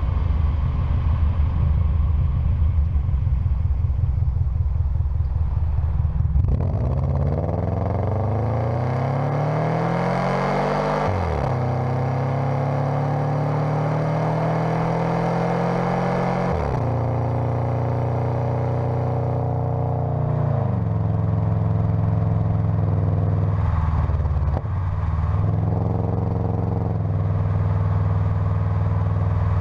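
Subaru Forester XS flat-four engine through a full aftermarket exhaust: equal-length headers, a single catalytic converter, 2.25 in piping and a Spintech Prostreet muffler. It opens with a low, pulsing rumble, then rises in pitch under full throttle in first gear and drops sharply at the shift to second. It climbs again through second gear and drops back to a steady cruise.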